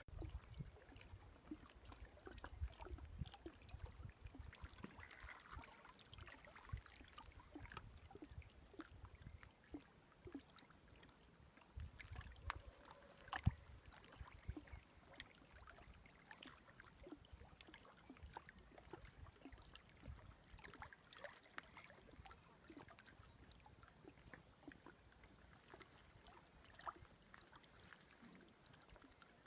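Faint sound of a small stream of running water trickling, with scattered light ticks and low rumbles.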